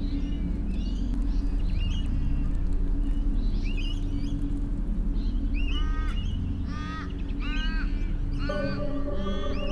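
Bird calls over a low steady drone. A cluster of harsh, repeated calls comes about six to eight seconds in, and a held tone starts near the end.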